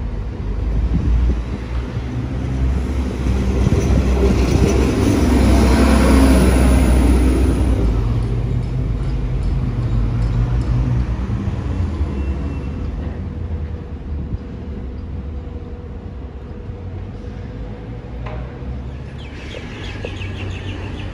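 A yellow infrastructure train passing along the platform: a low rumble that builds to its loudest a few seconds in, then fades slowly as it moves away.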